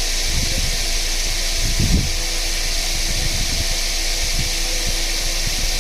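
Steady mechanical whirring hum with an even hiss, and a few faint low knocks.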